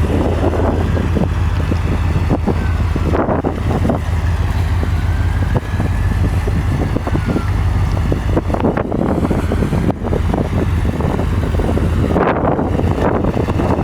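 A 1993 Dodge Ramcharger's V8 running with a steady low hum, under heavy wind buffeting on the microphone.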